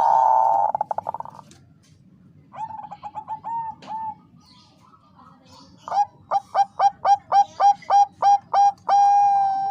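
Zebra dove (perkutut bangkok) cooing. It opens with a loud, rapid rattling trill, gives a few softer staccato coos, then a run of about a dozen loud clipped coos at roughly four a second that ends in one long held note.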